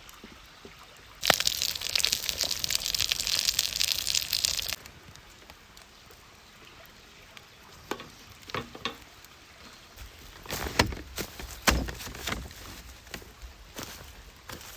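Sirloin steak sizzling loudly on a campfire grill for about three and a half seconds, starting and stopping suddenly, followed by scattered clicks and knocks.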